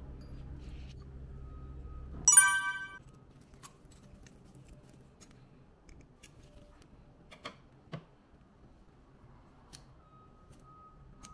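A low steady hum cuts off about two seconds in as a single bright ding rings out and fades within a second. After it, a few faint small clicks.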